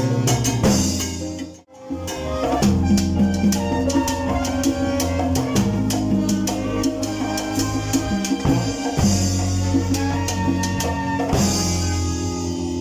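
Salsa band playing with drum kit and percussion. About a second and a half in, the whole band cuts off for a moment, then comes back in together.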